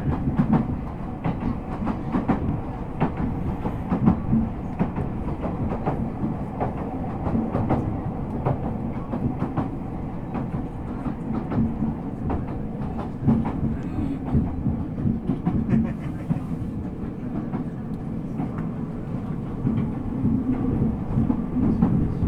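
Ueda Electric Railway 1000 series two-car electric train with Toyo GTO-VVVF control running along the line, heard from inside the car: a steady rumble of wheels and bogies with frequent clicks from the wheels over rail joints.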